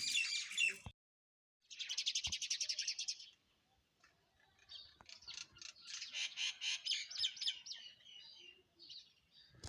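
Small songbirds chirping in quick, rapid runs of short high notes, with a second of dead silence near the start.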